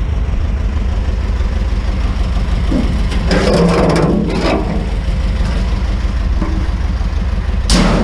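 Truck engine idling with a steady low rumble. A brief rush of noise about three to four and a half seconds in, and a short sharp clack near the end.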